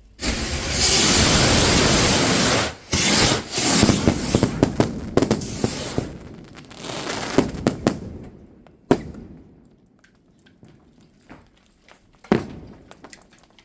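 Fireworks going off: a sudden loud hissing rush for a couple of seconds, then a volley of crackling pops that dies away, with two sharp single bangs near the end.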